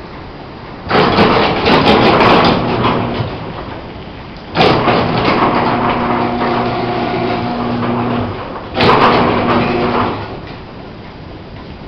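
A hand-held power tool working on a fiberglass sailboat hull in three bursts, the longest about four seconds. Each burst is a rough rubbing noise over a steady hum.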